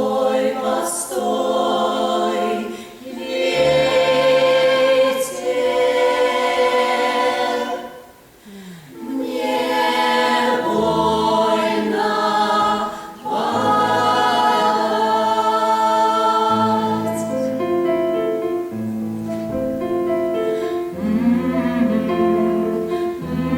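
A choir singing in harmony on long held notes, with a brief pause about eight seconds in.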